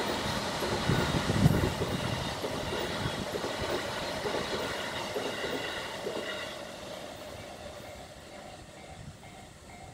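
An E233-series Keihin-Tōhoku line electric commuter train passing, its wheels clattering on the rails, loudest about a second and a half in and fading away over the last few seconds.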